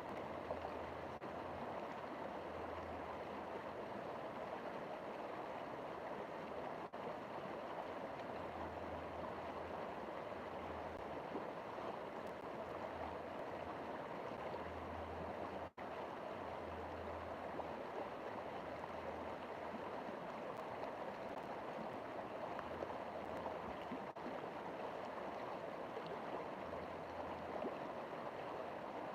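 River water flowing and rushing steadily over rocks, with a momentary dropout about halfway through.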